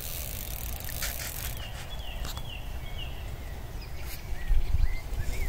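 Short, high bird chirps repeated over a steady outdoor background, with a few sharp clicks and a low thump of handling noise a little after four seconds in.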